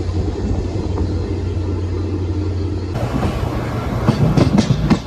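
Passenger train heard from an open coach doorway: a steady low rumble, changing abruptly about three seconds in to the wheels clacking over rail joints and points in a run of sharp clicks as the coach rolls along.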